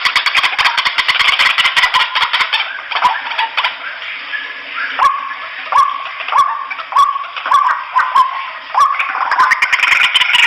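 White-breasted waterhens calling noisily: a dense run of rapid chattering calls, then a series of single calls about every half-second, each sliding sharply down into a short steady note, before the chatter builds again near the end.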